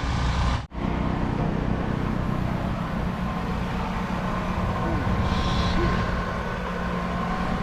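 A truck engine idling with a steady low rumble. The sound cuts out for a moment just under a second in.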